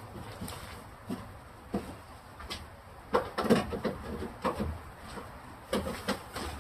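Groceries being put back into a refrigerator: scattered knocks and clatters of containers set down on the shelves, with a busier cluster about three seconds in and a few more near the end.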